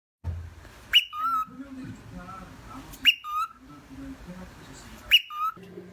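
A high whistle-like squeal that jumps up, holds, then drops to a lower note, repeated three times about two seconds apart.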